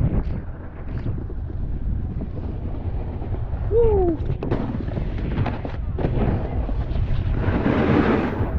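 Strong wind buffeting a GoPro action camera's microphone, a heavy, uneven low rumble.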